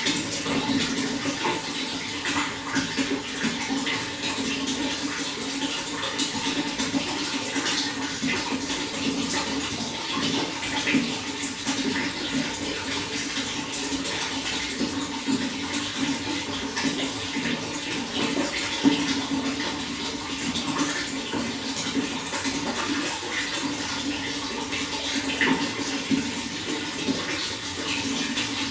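Running water: a steady rush with many small splashes throughout.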